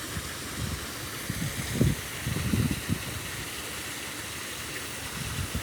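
Pond waterfall rushing, a steady hiss of falling water, with a few low bumps about two to three seconds in.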